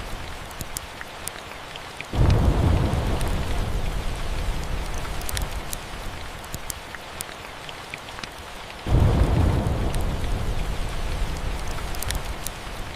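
Steady rain with two rolls of thunder, one about two seconds in and one near nine seconds, each breaking suddenly and fading away over several seconds. Faint sharp crackles, as from a wood fire, are scattered through it.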